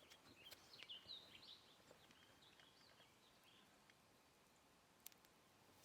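Faint birdsong: a string of short chirping calls in the first two seconds, then near-silent outdoor quiet with one small click about five seconds in.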